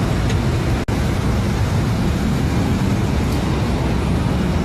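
Steady road and engine noise of a moving car, with a very short dropout about a second in.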